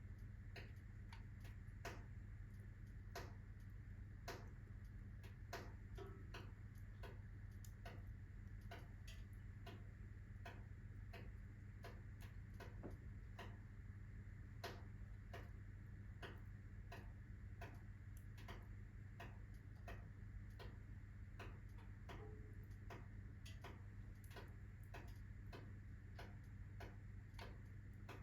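Wood fire crackling: soft, irregular snaps and ticks from the burning logs, over a faint steady low hum.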